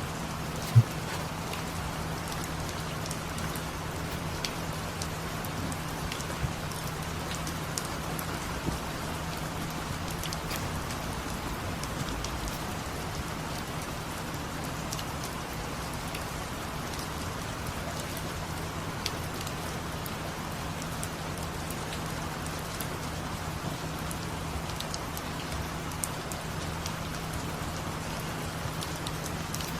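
Steady rain falling, with scattered drop ticks and a low steady hum beneath. One sharp louder click comes about a second in.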